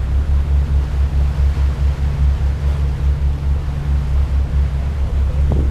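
Tour boat's engine running with a steady low throbbing drone, with wind rushing over the microphone.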